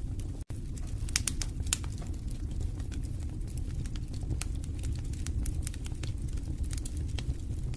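Wood fire in a fireplace crackling: many sharp pops and snaps over a steady low rumble of flames. There is a split-second dropout about half a second in.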